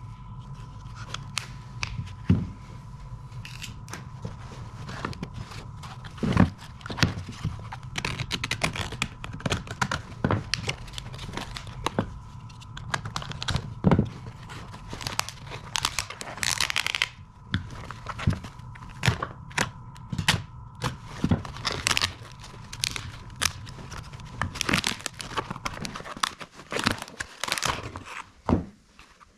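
A protective bag being cut and torn off an excavator's electric engine stop motor: repeated snips, tearing and crinkling, with many small clicks and a longer rustle about halfway through.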